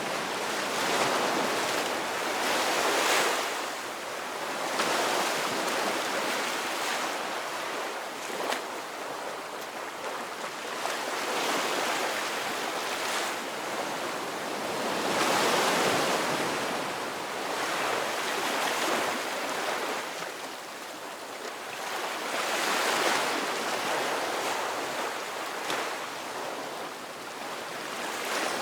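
Ocean waves breaking and washing on a shore, a continuous hiss of surf that swells and eases every few seconds.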